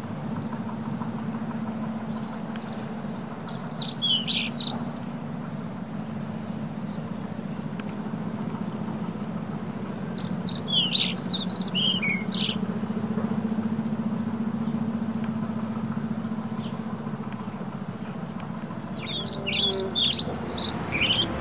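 A songbird singing three short phrases, each a quick run of high chirps, about seven or eight seconds apart, over a steady low drone.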